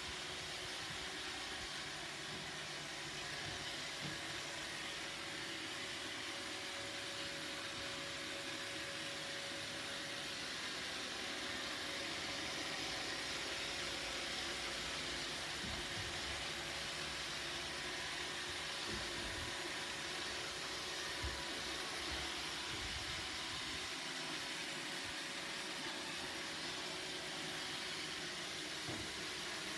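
Roomba robot vacuum running: a steady hissing whir with a faint constant hum, and a few soft low knocks about halfway through.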